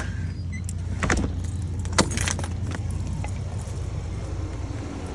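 Pickup truck running with a steady low hum, heard from inside the cab, with a few light metallic jingles and clicks, the sharpest about two seconds in.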